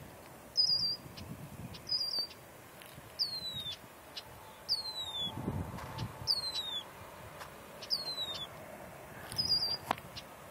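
A bird calling over and over, about every second and a half, with short high chirps: some slide downward and some are quick warbled trills. Under the calls is a faint low rumble from the jet airliner slowing on the runway.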